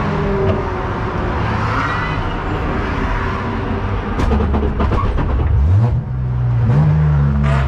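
BMW race car push-started, heard from inside the cabin: a steady rolling rumble, then about four seconds in the engine catches and runs, its note rising near the six-second mark and then holding steady.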